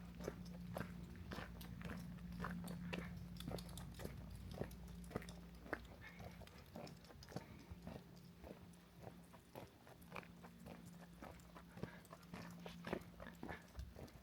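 Faint, irregular clicks and crunches, many per second, over a low steady hum.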